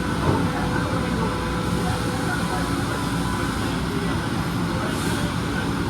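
Kan KH-6 CNC deburring and washing machine running: a steady mechanical whir and hum with a few constant tones.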